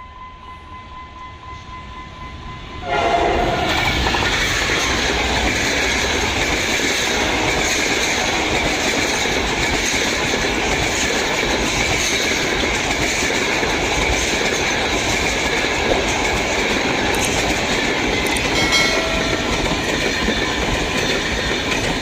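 Sleeper passenger train passing close by: about three seconds in, a sudden loud rush of wheel and rail noise begins and stays steady, with the clickety-clack of wheels over rail joints.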